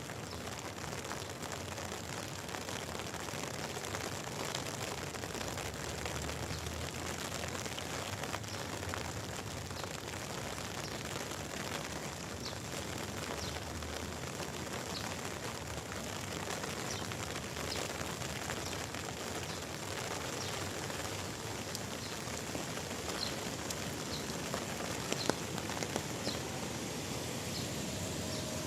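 Steady rain falling, a continuous even hiss, with scattered light drip ticks in the second half and a brief sharper tap near the end.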